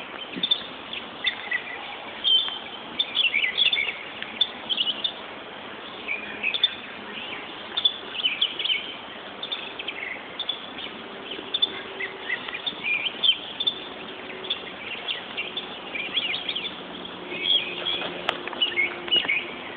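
Small birds chirping: many short, high calls overlapping throughout.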